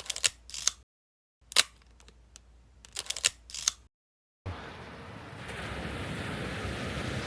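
Camera shutter clicks in two short clusters, each a sharp snap followed by a few lighter clicks, broken by dead silence. From about four and a half seconds in there is a steady rush of sea surf.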